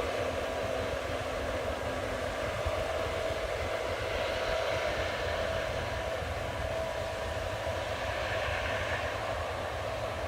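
Case combine harvester running steadily while harvesting barley: an even machine drone with a low rumble and a constant hum over it.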